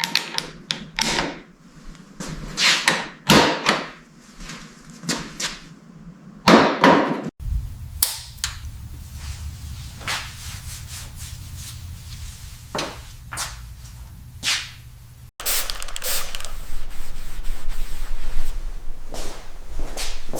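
A series of sharp knocks and clicks in three stretches, each breaking off abruptly, the first about a third of the way through and the second about three quarters of the way through, with a low steady hum under the later stretches.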